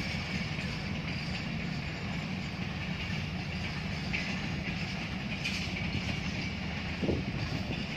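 Business Express passenger train coaches rolling past on the track: a steady rumble of wheels on rails.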